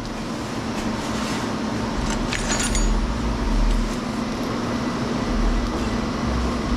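A steady mechanical drone with a constant low hum, like a nearby engine or machine running, with a few light metallic clinks about two to three seconds in.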